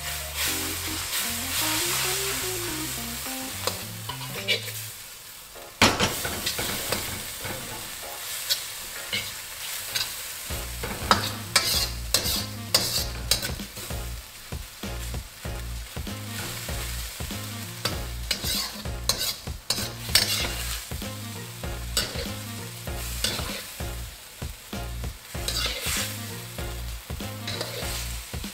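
Egg noodles sizzling in a soy-sauce mixture in a wok, stirred and tossed with a steel wok ladle that clacks and scrapes against the pan. The clacks come thick and fast after the first few seconds, beginning with one sharp knock.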